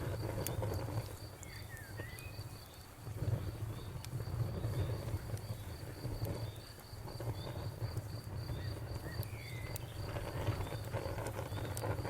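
Crickets chirping in a steady, even rhythm over a crackling wood fire, with a low rumble and a few sharp pops.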